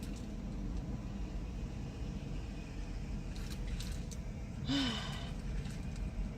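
Steady low rumble of vehicles idling and running, with a few faint clicks and a short hum from a person about five seconds in.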